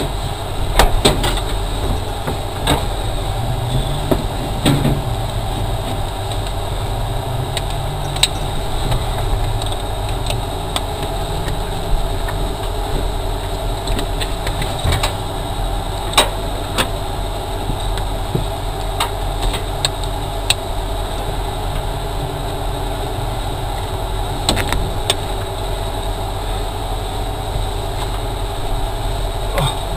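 Ford Focus competition car's engine idling steadily, heard inside the stripped, roll-caged cabin, with sharp clicks and knocks every few seconds.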